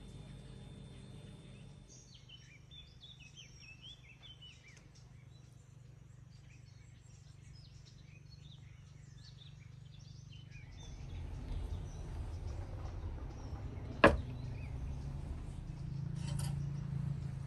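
Small birds chirping and twittering in short bursts of song. Later a low rumble rises, and a single sharp knock, the loudest sound, comes about three-quarters of the way in, followed by a couple of faint clicks.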